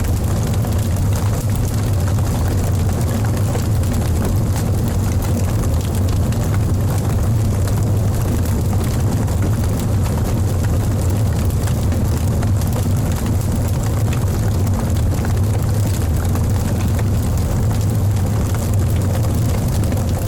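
Wood fire burning in a fireplace: a steady low rumble with frequent small crackles and pops from the burning logs.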